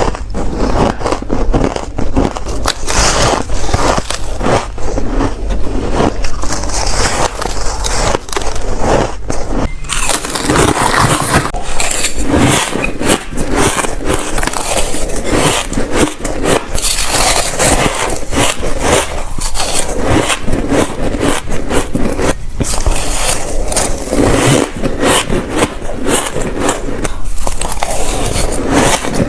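Ice being bitten and chewed: a steady run of crisp, crackling crunches with no let-up.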